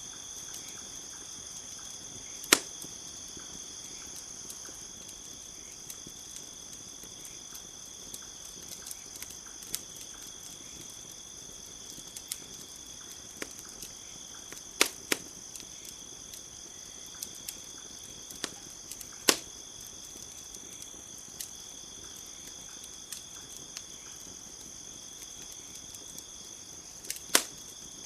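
Campfire crackling: scattered sharp pops and small ticks, with a few loud snaps around 2.5 s, near 15 s, near 19 s and a close pair near the end. Under it runs a steady high chorus of crickets.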